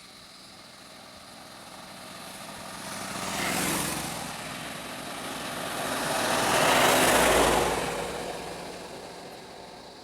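Two road vehicles driving past one after the other. The first passes about three and a half seconds in, and a louder one passes about seven seconds in, each rising and then fading away.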